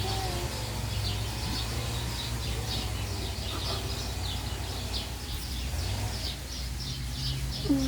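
Birds chirping, short high calls repeated about three times a second, over a low steady rumble.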